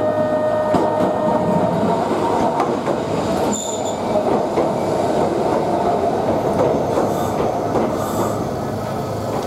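Yokkaichi Asunarou Railway narrow-gauge train pulling into the platform, squealing with a steady high tone for the first two or three seconds over the rumble of the cars rolling past. A brief sharper squeal comes about three and a half seconds in, then the rolling noise continues as the train slows.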